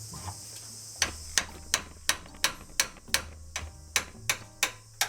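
A run of sharp, even metal taps or clicks, about three a second, starting about a second in, with insects chirring steadily behind.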